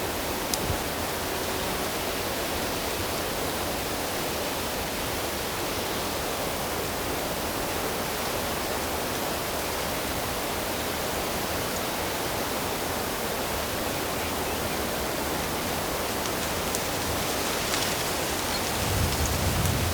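Steady rush of flowing water, an even hiss with no letup. Near the end there is a brief low rumble.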